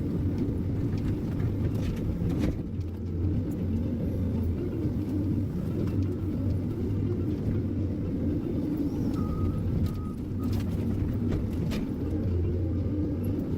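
Heavy diesel engine of a log-handling machine running steadily with a low hum. A few sharp knocks are heard over it, one early and a couple near the end.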